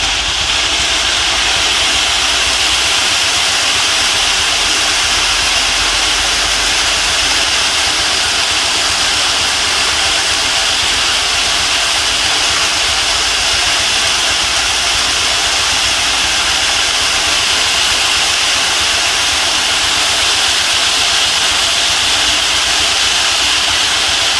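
A loud, steady rushing hiss that does not change.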